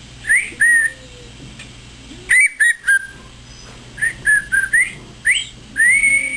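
African grey parrot whistling: short clear notes, several of them rising, in a few quick groups, ending with a longer note that rises and then holds.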